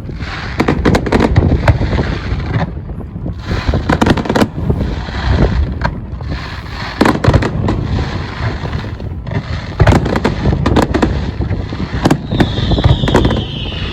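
Fireworks display: rapid, overlapping bangs and crackling from aerial shells. A high whistle falling in pitch starts near the end.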